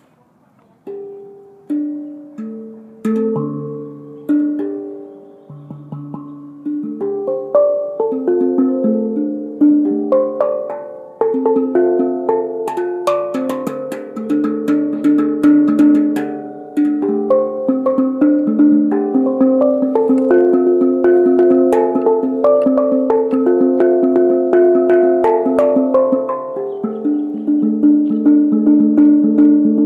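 Hang drum (steel handpan) played by hand: single ringing notes about a second apart at first, building after about seven seconds into a dense, flowing melody of overlapping ringing tones.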